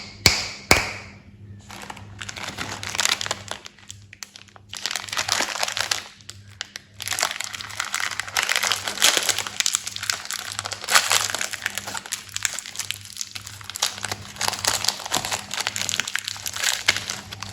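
Plastic candy wrappers crinkling and crackling as they are handled and opened by hand, in bursts with short pauses, with a few sharp clicks at the start.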